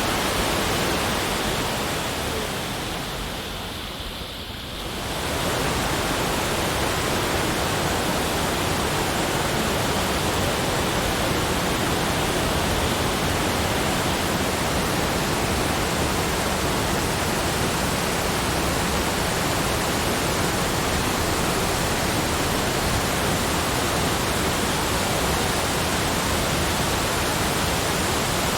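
Steady, even rushing noise that fades down about three seconds in and comes back up a couple of seconds later.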